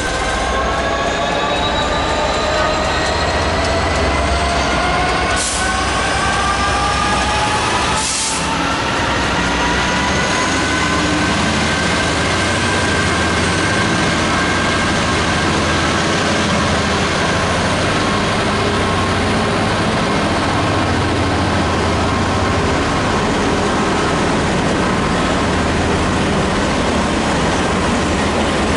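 Freight train rolling past at close range: a steady loud rumble of wagons on the track, with a set of squealing tones that slowly rise in pitch through the first ten seconds or so and then fade.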